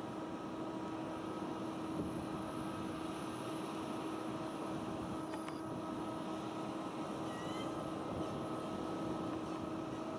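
Steady engine drone with a constant low hum that neither rises nor falls, and one brief high chirp about three quarters of the way through.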